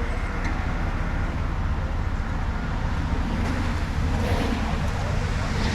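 Diesel engine of a stone slinger dump truck running steadily with a low rumble.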